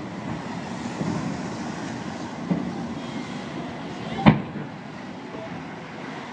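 Fireworks bursting overhead: a couple of softer booms, then one sharp, loud bang about four seconds in, over a steady murmur of the crowd.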